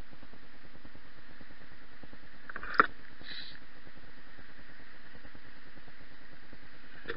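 Steady hiss and hum of a bicycle ride picked up by a bike-mounted action camera, with one sharp knock a little under three seconds in and a brief hiss just after.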